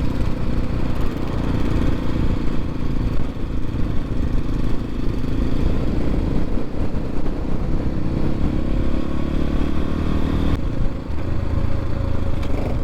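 X-Pro Templar X 250 dirt bike engine running under way. Its note shifts about ten and a half seconds in.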